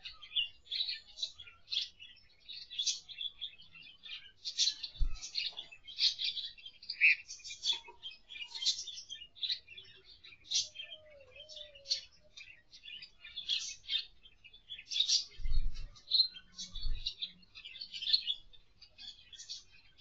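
Small aviary birds chirping: a steady stream of short, high chirps, several a second. A low thump about five seconds in and two more, the loudest sounds, near the end.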